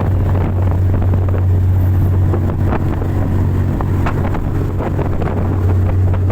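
Boat engine running steadily at speed, a constant low drone, with wind buffeting the microphone and irregular rushing noise over it.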